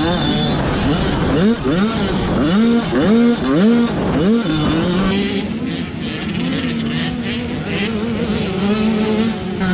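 Two-stroke 85cc motocross bikes revving hard, the engine note climbing and dropping back again and again as the throttle is worked and gears are shifted. About halfway through the note steadies and a hiss joins it.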